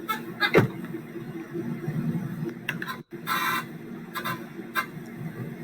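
A few scattered clicks and knocks, the loudest about half a second in, and a brief rustle a little past the middle, over a steady low hum.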